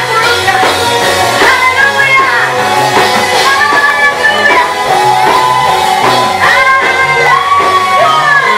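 A praise team sings a worship song with band accompaniment; several voices glide between notes over a steady bass line.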